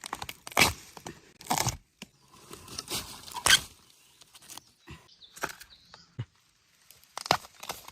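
Bamboo shoots being snapped off by hand: about four sharp cracks with crackling and rustling of dry husks and leaves in between.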